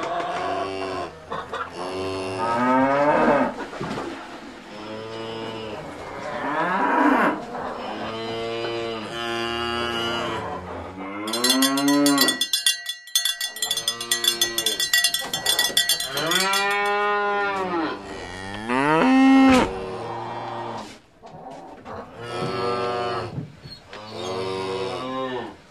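Red zebu cattle mooing over and over, call after call, each moo rising and falling in pitch. Around the middle, a shrill, rattling high-pitched sound runs for a few seconds.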